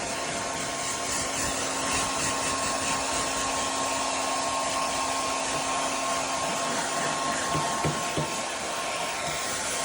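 Handheld blow dryer running on its fan setting without heat: a steady rushing whir with a constant motor hum and whine. A few brief knocks come about eight seconds in.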